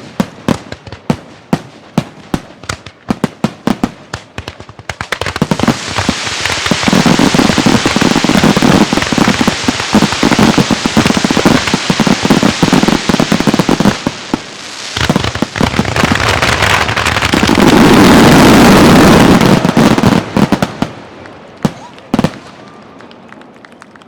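Aerial fireworks shells going off in a rapid barrage. It opens with a string of sharp separate bangs, then turns to several seconds of dense, continuous crackling and booming. After a brief lull about fourteen seconds in comes another dense, loud volley, and a few last scattered pops close it out.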